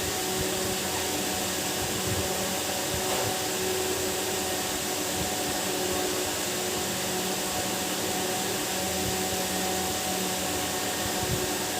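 Steady whirring hiss with a low electrical hum, like a small motor or fan running.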